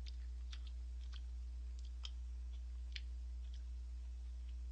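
Person chewing a mouthful of ramen noodles: scattered soft wet mouth clicks and smacks, about two a second, over a steady low electrical hum.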